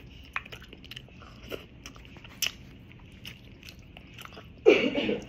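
Close-up chewing and crunching of fish eaten by hand, with many small crisp clicks and crackles. A short, louder burst comes near the end.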